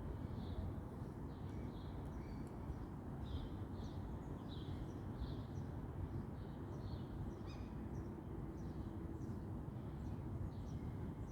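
Small birds chirping repeatedly, many short high calls, over a steady low rumble of outdoor background noise.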